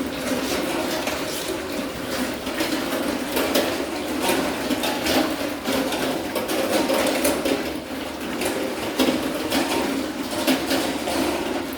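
Sow eating from her feed, with steady, irregular smacking and chewing sounds.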